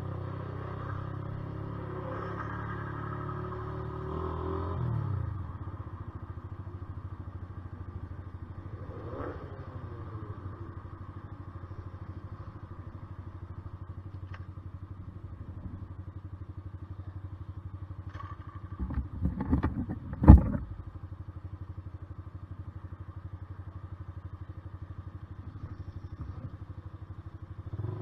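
Honda CBR125R's single-cylinder four-stroke engine running, easing off about five seconds in and settling to a low, steady, evenly pulsing beat. About twenty seconds in, a few knocks end in one loud thump.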